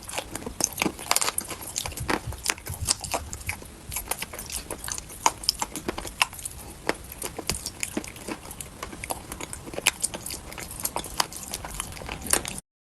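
Close-up crunching of dry chalk being bitten and chewed, with many irregular sharp crackles. It stops abruptly near the end.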